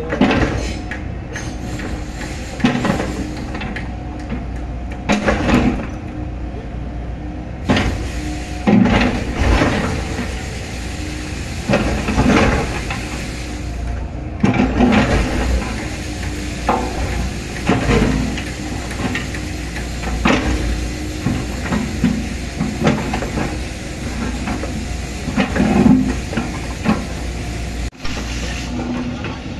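Hydraulic excavator at work: its diesel engine runs steadily with repeated surges under load, with hiss and short metallic clanks and knocks as it digs and levels soil.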